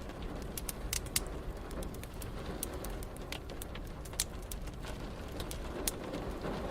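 Wood fire in a fireplace crackling, with irregular sharp pops and snaps, over a steady low rumbling hiss.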